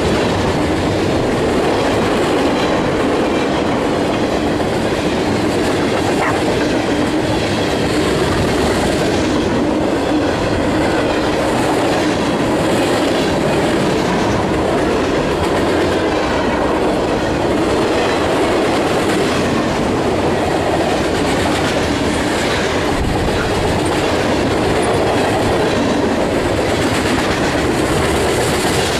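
CSX mixed freight train of boxcars, tank cars and gondolas rolling past close by: steady loud rumble and clatter of steel wheels on the rails.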